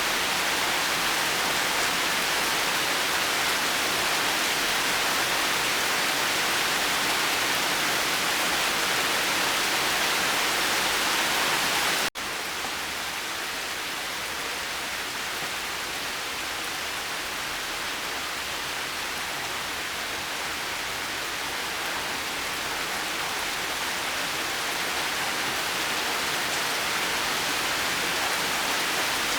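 Steady, dense rainfall, a continuous hiss of drops. About twelve seconds in there is a brief break and the rain goes on a little quieter, slowly growing louder toward the end.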